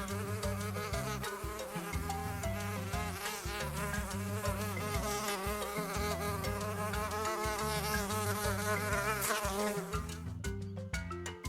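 Insects buzzing: a dense, wavering buzz with a low droning hum beneath it, thinning out near the end.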